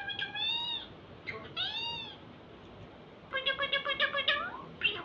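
Pet myna bird calling: drawn-out meow-like calls and arching whistles, then a rapid run of short clipped notes about three and a half seconds in.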